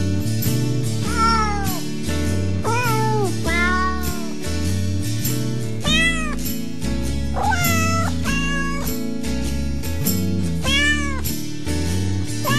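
Background music with a steady, repeating bass line, overlaid by cat meows that rise and fall in pitch, recurring every second or two.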